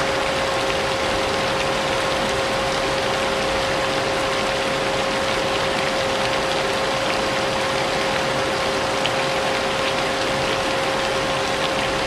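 Vacuum cleaner motor running steadily with a constant whining hum, mixed with the even hiss of falling rain and faint scattered drop ticks.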